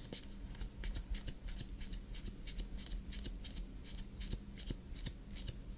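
Trading cards being flipped and slid through the hands, a quick run of soft papery ticks, several a second, over a faint electrical hum.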